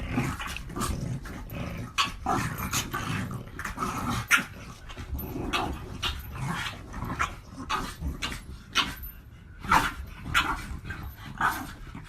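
French bulldog puppy growling, with many short, irregular yaps and sharp sounds in between.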